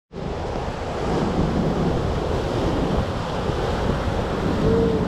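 Rough, storm-driven sea surf breaking on the beach, with strong wind rumbling on the microphone.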